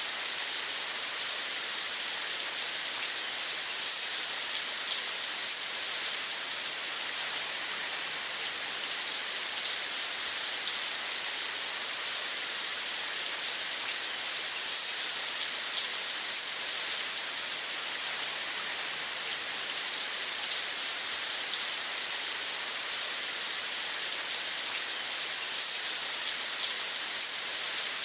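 Steady rain falling, an even high hiss with fine drop ticks, unchanging throughout.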